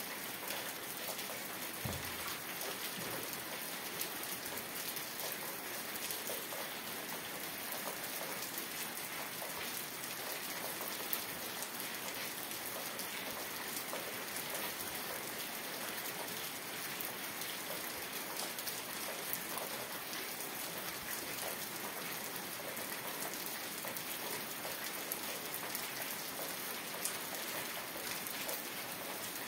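Steady heavy rainfall: an even hiss with many individual drops ticking through it.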